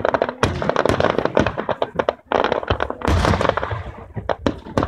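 Fireworks going off in quick succession: a dense run of sharp crackling bangs with several heavier booms among them.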